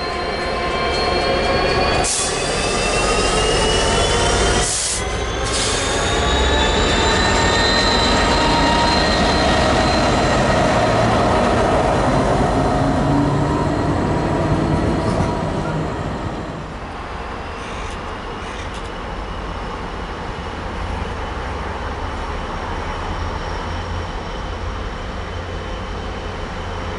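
Diesel-hauled freight train running past, a whine of several tones rising in pitch over the first several seconds and then holding, with a couple of sharp knocks early on. About 16 seconds in it drops to a quieter, steady rumble of rolling wagons.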